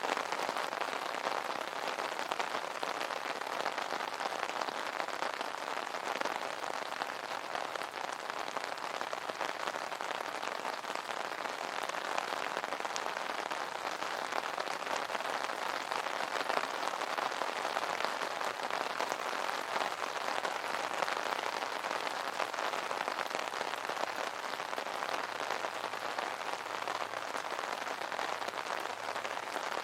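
Steady rain falling on an umbrella: a dense, even wash of drops with fine ticks of individual drops throughout, unchanging over the whole stretch.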